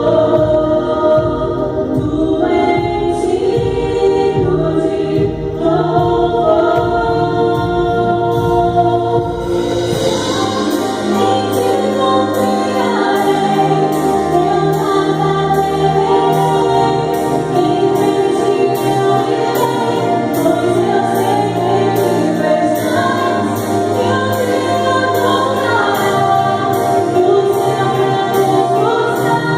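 Christian gospel music with a group of voices singing together over instruments. About ten seconds in, a steady beat of regular high percussion ticks joins.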